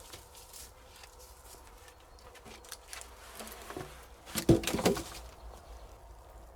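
Faint rustling and small clicks, then a short cluster of sharp knocks or cracks about four and a half seconds in.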